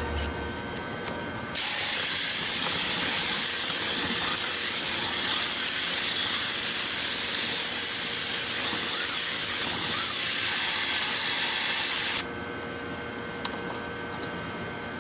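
Dryer vent cleaning power tool running inside the vent duct: a steady hiss with a high whine, starting about a second and a half in and cutting off about twelve seconds in.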